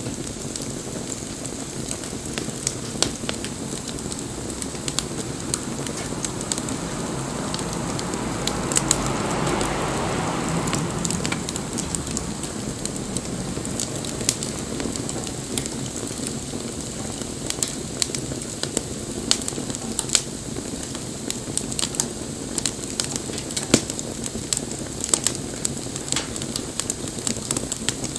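Wood bonfire burning, with sharp pops and crackles scattered throughout over a steady hiss. A soft rushing swell rises and fades about a third of the way in.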